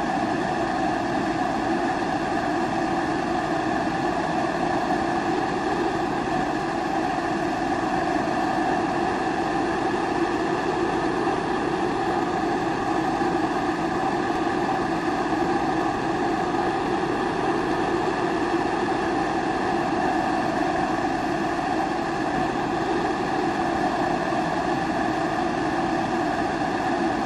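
Pressurised kerosene primus stove burner running, a steady unbroken rushing sound.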